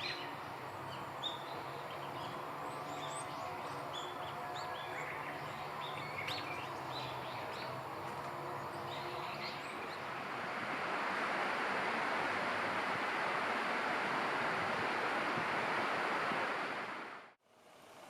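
Small birds chirping over a steady outdoor background with a faint low hum. About ten seconds in, a louder, even rushing noise rises and holds, then cuts off abruptly near the end.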